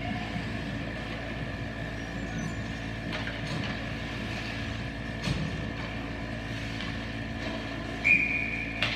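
Ice rink ambience during a hockey game: a steady hum with a few sharp knocks of sticks and puck, and a short, loud high-pitched tone about eight seconds in.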